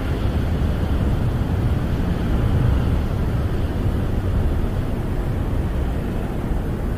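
Snowstorm wind blowing against a camper, heard from inside: a steady low rumble with a lighter hiss above it, swelling a little about halfway through.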